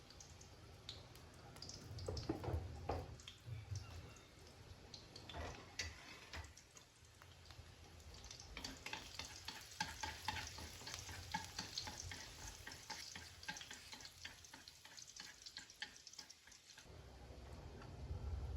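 Garlic frying in hot oil in a pan, crackling and sizzling while it is stirred. A low hum comes in near the end.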